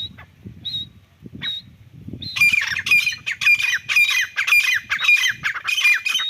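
Irani teetar partridge calling. A few short, evenly spaced high notes come first. About two seconds in, it breaks into a loud, rapid series of harsh repeated calls, roughly two or three a second, each falling in pitch.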